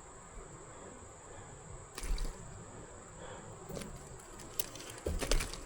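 Wet handling of a freshly caught bass, with squishes and drips and a few bumps about two seconds in and again near the end, over the steady hiss of flowing creek water and a constant high insect drone.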